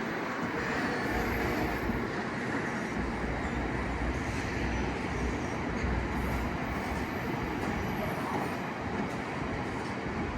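A train running at a station platform: a steady rumble and hiss, with a low drone that comes and goes.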